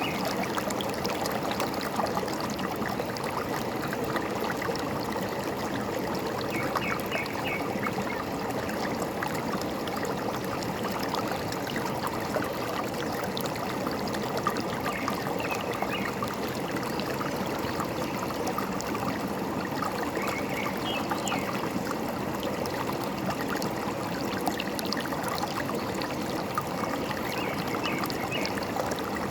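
A forest stream gurgling and trickling steadily, with short bird chirps about four times.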